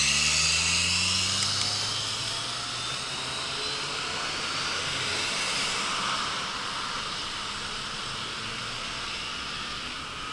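Engine drone with a hiss, its pitch rising and loudest in the first second or two, then easing into a steady background hiss.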